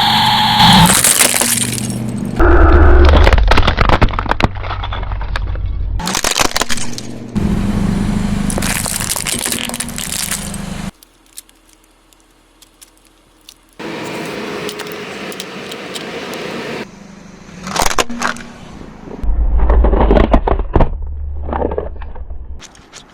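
A car's tyres rolling over and crushing crunchy objects: a string of edited clips of cracking, snapping and breaking, some with a low rumble of the car under them, and a quieter gap about halfway through.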